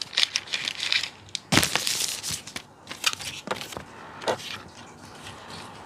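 Action-figure packaging being handled: plastic and paper crinkling and crackling in the hands. There is a dense run of crackles with the loudest burst about one and a half seconds in, then a few scattered crinkles.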